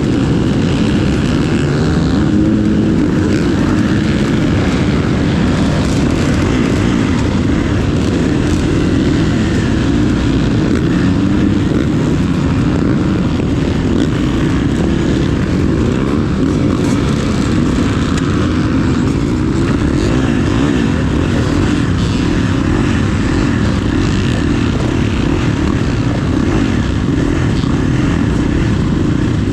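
Motocross dirt bike engines running and revving continuously, their pitch rising and falling.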